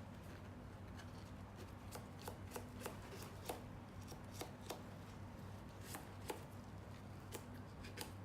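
Irregular light clicks and taps, about one or two a second, of small tools and parts being handled at a workbench, over a steady low hum.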